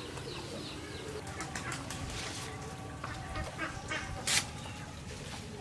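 Birds calling in the background over a steady low hum, with scattered light clicks and rustles and one louder, short rustling scrape about four seconds in.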